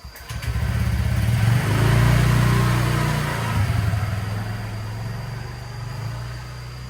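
An engine starts and revs up, peaking about two seconds in, then settles into a steady run that slowly fades.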